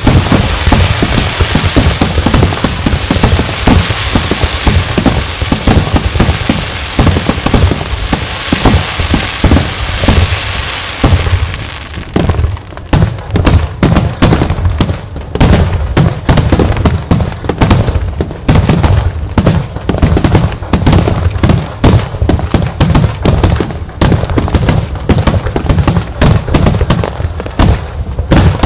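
Fireworks finale: aerial shells bursting in rapid succession. For the first dozen seconds the bursts come so close together that they run into a continuous crackle; after that they come as separate bangs, several a second.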